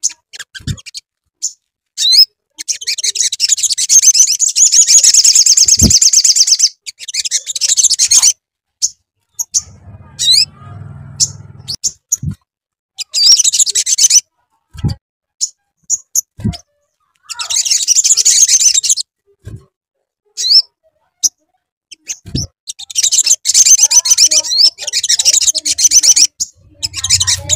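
Spiderhunter (sogok ontong) song: four long, loud, very fast high-pitched trills, separated by short rising chirps. A few dull low thumps and a brief faint low hum fall in the gaps.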